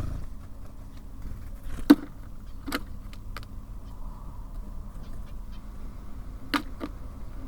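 Birds at a bird feeder: a few sharp taps and knocks as they land and peck, the loudest about two seconds in, over a steady low background rumble.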